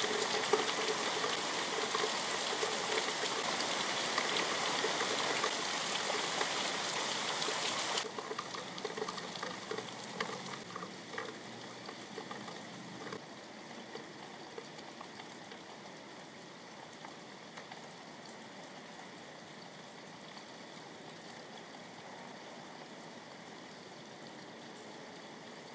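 Heavy rain falling steadily in a thunderstorm. It drops sharply about eight seconds in and again about five seconds later, settling into lighter steady rain.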